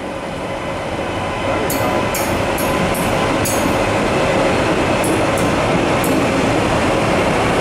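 TransPennine Express electric train pulling out of the station and running past close by. A steady rolling noise with a faint whine grows louder over the first couple of seconds, and the wheels give several sharp clicks over rail joints.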